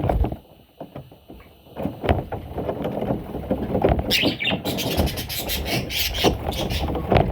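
Budgerigar chicks chirping in short repeated raspy bursts, over rumbling knocks and handling noise. There is a quieter gap early on.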